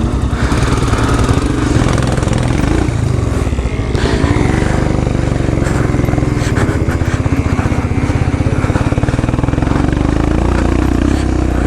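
Royal Enfield Himalayan's single-cylinder engine running at low revs as the bike rides slowly, its note dipping briefly about four seconds in before picking up again.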